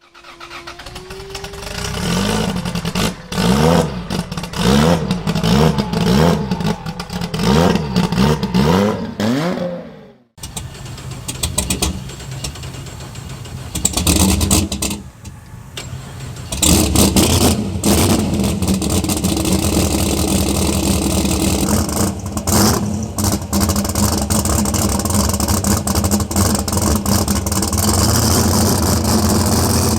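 Turbocharged LS V8 engine of a Torana drag car being revved in quick repeated blips, about one a second. About ten seconds in the sound cuts, and the engine then runs on steadily and loud.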